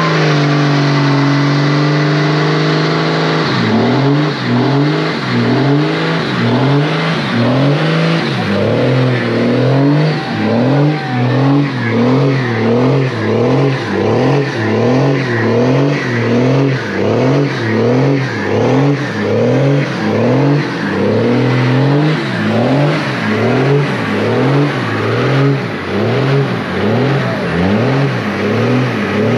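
Car engine held at steady revs, then from about three seconds in revved up and let drop over and over, roughly once a second.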